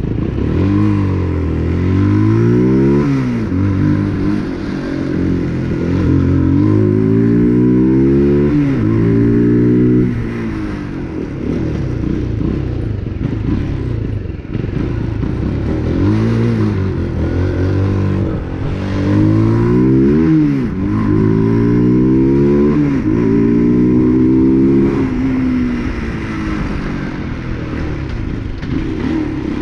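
UM RS 125 motorcycle's 125 cc engine accelerating through the gears under way, its pitch climbing and dropping back at each gear change. It does this in two runs of several shifts, with steadier, quieter running in between.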